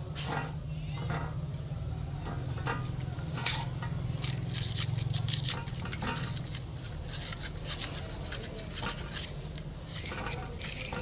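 Metal parts and hand tools clinking and scraping during work on a truck brake servo, in quick irregular strokes that are busiest in the middle, over a steady low hum.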